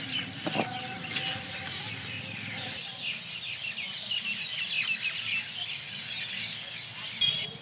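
Many small birds chirping in short, repeated calls over open countryside, with a few sharp clicks in the first two seconds.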